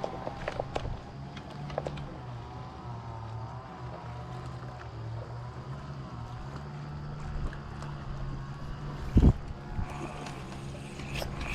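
An engine running steadily at a low hum, with a single loud thud about nine seconds in.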